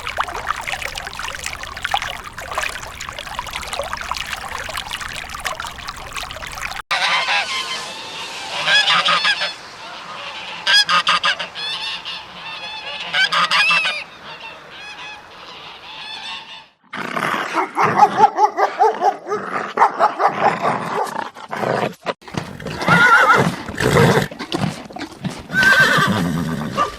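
Domestic geese honking, many calls overlapping, in three separate stretches.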